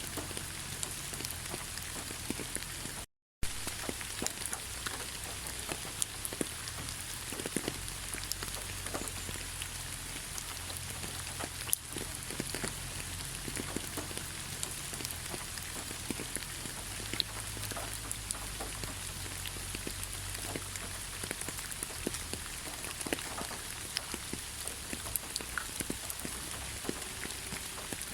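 Steady rain falling in a pine forest: an even hiss with many separate drops ticking on the branches and needles. About three seconds in, the sound cuts out completely for a fraction of a second, then resumes.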